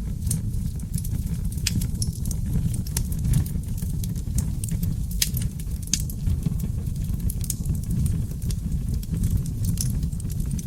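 Wood fire burning in a fireplace: a steady low roar of the flames, with frequent sharp crackles and pops from the burning logs at irregular moments.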